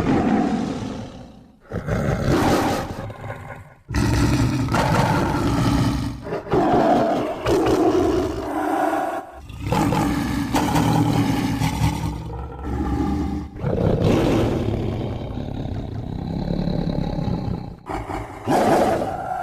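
Designed dinosaur-like creature sound effects for the burrunjor: a run of deep, rough roars and growls, one after another with brief breaks between them.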